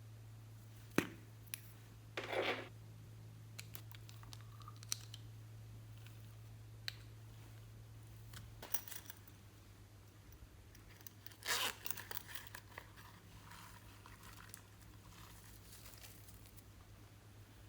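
Slime being handled and mixed: a sharp click about a second in, then short sticky, crackling tearing noises and scattered small taps. A low steady hum stops about halfway through.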